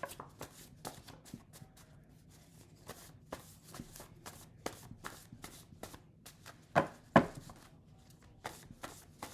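A deck of cards being shuffled by hand: a run of light card clicks and rustles, with two louder snaps about seven seconds in.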